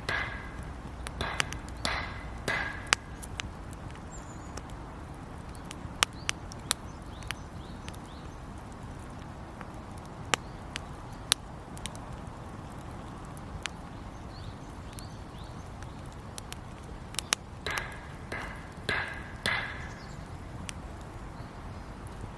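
Wood campfire crackling, with scattered sharp pops and snaps over a steady low hiss. Twice, near the start and again about eighteen seconds in, there is a short cluster of louder, higher-pitched sounds.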